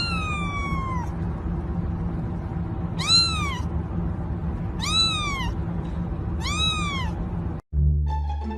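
A cat meowing four times: short high-pitched calls that rise and then fall, the first one longer and trailing downward, over a steady low hum. Near the end the sound cuts off abruptly and string music begins.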